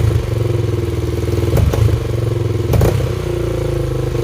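Honda XR400's single-cylinder four-stroke engine running, given a couple of big stabs of throttle about a second and a half and nearly three seconds in. It bogs down instead of revving cleanly, which the owner takes for the engine running rich, getting too much fuel.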